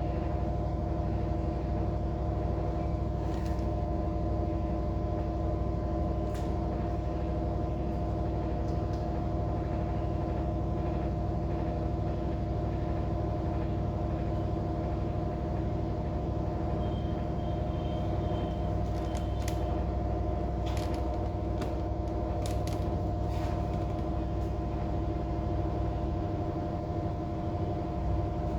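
A machine running with a steady hum: a low rumble with several constant tones over it, and a few faint clicks.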